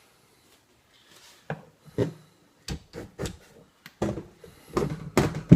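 Parts of a recoil-reducing collapsible shotgun stock being handled as a recoil spring is put back in: a run of knocks, clicks and rubbing that starts about a second and a half in and gets louder and busier near the end.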